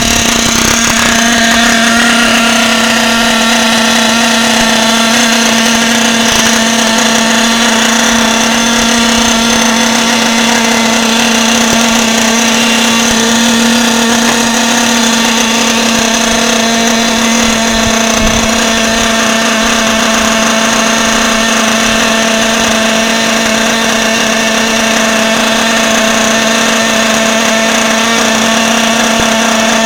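The motor of an HPI Lightning Stadium Pro radio-controlled stadium truck running steadily, holding one high, unchanging pitch throughout.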